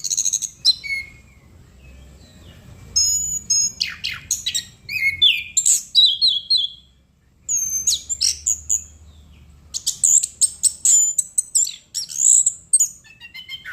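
Orange-headed thrush singing a varied song of loud whistled phrases and quick chirping notes. The song comes in bursts, with a pause about a second in and another about seven seconds in.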